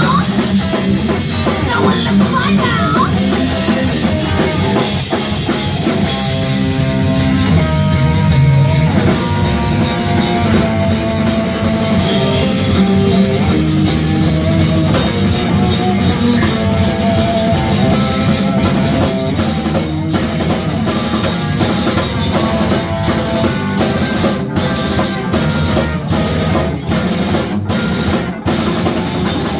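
Live rock band playing loudly: drum kit, electric guitars and bass. Held chords run through the middle, then the band hits short stop-start breaks about once a second near the end.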